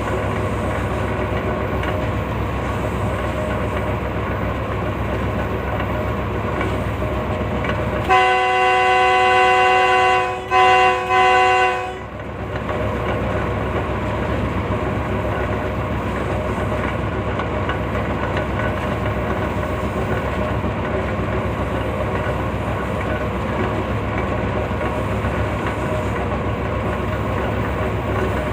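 Train running with a steady rumble of wheels on the rails, and the locomotive's horn sounding a chord: one long blast about eight seconds in, then two short blasts.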